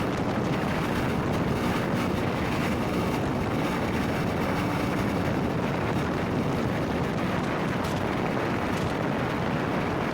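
Motorcycle riding at speed: a steady rush of wind over the microphone with the engine running underneath.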